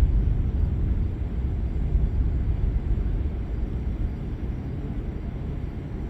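Deep rolling rumble of thunder that slowly fades.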